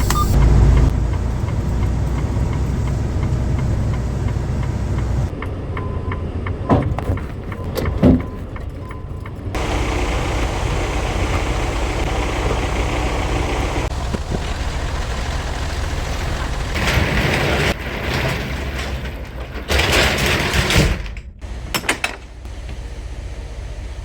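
Semi truck running, a steady low engine rumble, with a few sharp knocks and some short bursts of hiss.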